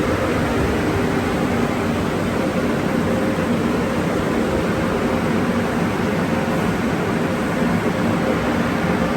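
Car wash tunnel drying blowers running steadily: a continuous rushing of air with a faint steady hum underneath.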